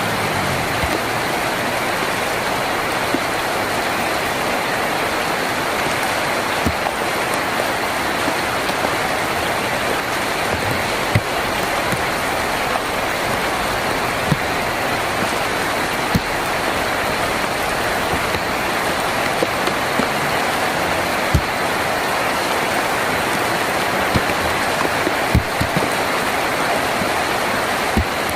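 Heavy rain falling steadily on a tin roof, with now and then a single louder drop ticking sharply on the metal.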